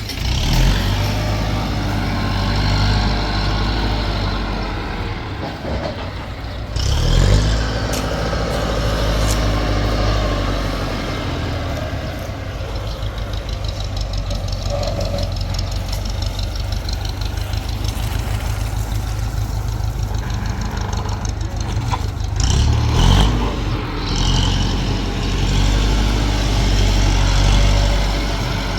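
Heavy engine running steadily with a low hum, revving up briefly about seven seconds in and again around twenty-three seconds in.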